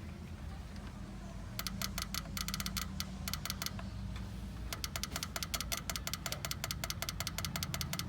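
Rapid mechanical clicking, about eight to ten clicks a second, starting about a second and a half in, in short runs with a pause near the middle, then steady, over a steady low hum.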